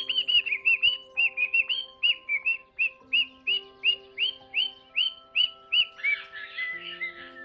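A small animal chirping, a fast run of short high chirps about three a second, over calm background music of long held notes. The chirps give way to a softer, noisier twittering near the end.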